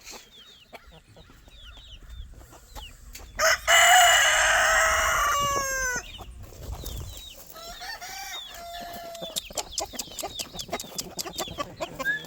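A rooster crows once, loudly, for about two and a half seconds starting about three and a half seconds in. Hens cluck and call around it.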